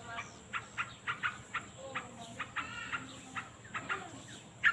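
Birds calling: a rapid, irregular series of short, sharp notes, with a few lower clucking tones.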